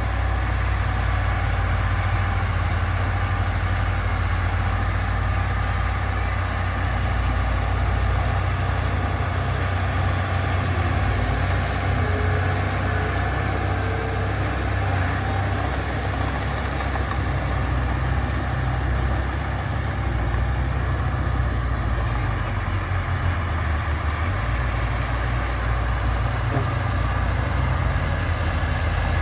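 Heavy diesel engine of earthmoving machinery running steadily: a deep, even drone with no revving or breaks.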